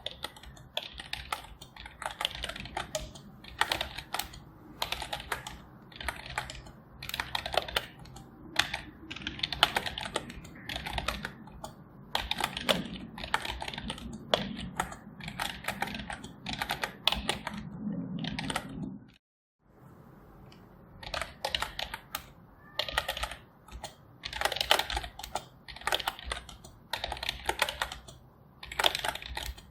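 Typing on a computer keyboard: runs of quick key clicks in bursts with short pauses between them. The sound cuts out completely for a moment about two-thirds of the way through, then the typing resumes.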